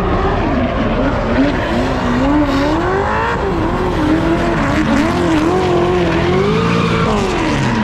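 Drift car on track: the engine revs rise and fall continuously as the throttle is worked through a slide, over loud tyre squeal.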